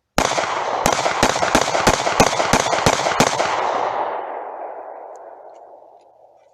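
9mm handgun fired in a rapid string, about nine shots at roughly three a second, with the echo trailing away over the next couple of seconds.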